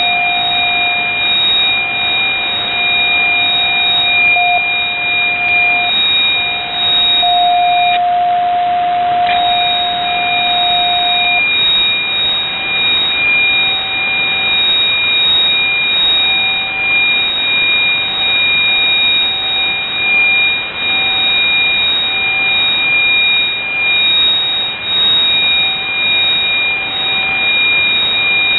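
Shortwave radio reception of the UVB-76 channel after jamming: a steady hiss of static with two high, steady whistling tones and a lower tone that cuts in and out. The high whistles drop out for about a second around eight seconds in. The lower tone is strong at first, then weakens into broken pulses.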